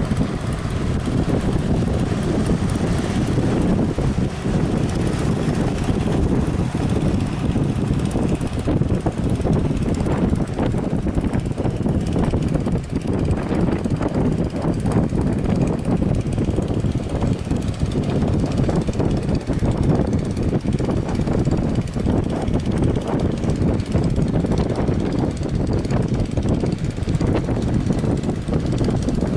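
Strong wind buffeting the microphone: a loud, steady low rumble that flutters unevenly.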